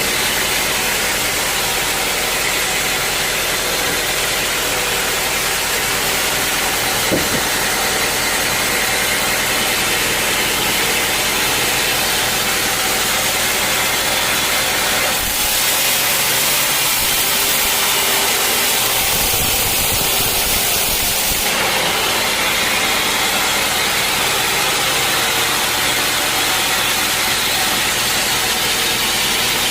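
A sawmill's engine running steadily. About halfway through, an added hiss comes in for several seconds and then stops.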